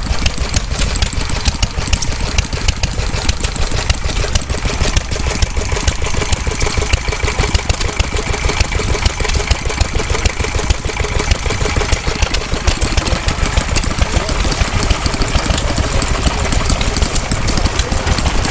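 Vintage stationary engine running steadily, with a rapid, even train of knocks.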